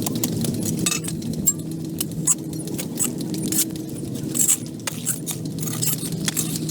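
A steady motor hum with irregular sharp clinks and ticks on top, like small hard objects knocking and scraping, more frequent near the end.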